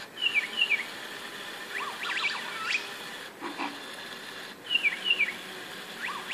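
Recorded bird song played back by a LEGO WeDo 'dancing birds' robot: short bursts of quick, high chirps and whistles that glide up and down, repeating on a loop every couple of seconds.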